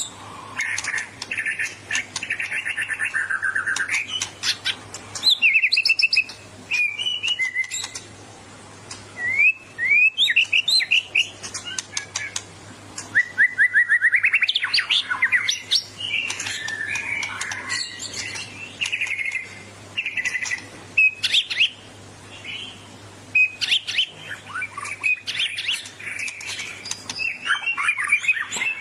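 White-rumped shama (murai batu) singing a loud, varied song of fast repeated-note trills, sliding whistles and sharp clicks. This is the aggressive song of a bird worked up to fight a rival.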